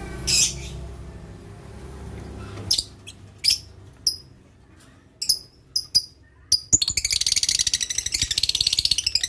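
Lovebirds calling: sharp, high-pitched chirps about once a second, then a rapid, shrill chattering for the last two seconds or so.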